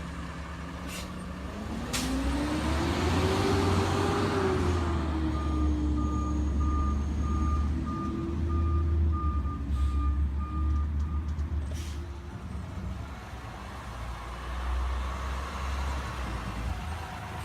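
CNG garbage truck running, its engine revving up and back down about two seconds in. Its reversing alarm then beeps steadily for about six seconds, with a few sharp clacks along the way.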